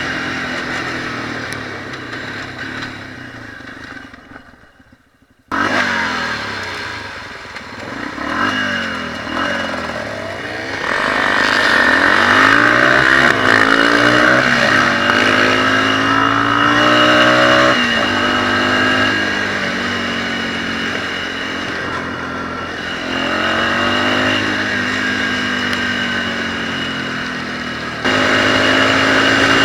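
Dirt bike engine revving up and down as it is ridden, its pitch climbing and falling repeatedly through gear changes. About five seconds in, the sound fades almost to nothing, then returns suddenly at full level.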